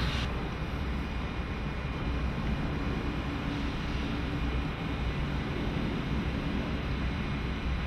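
Electric train moving through a station yard, a steady low rumble with faint steady tones above it.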